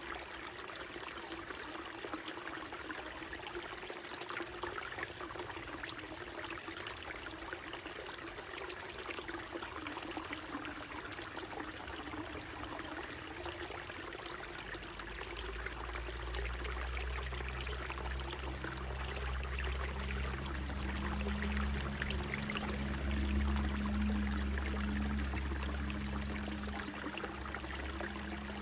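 Small mountain stream trickling and babbling steadily. About halfway through, a low droning hum joins in and grows louder, peaking a few seconds before the end.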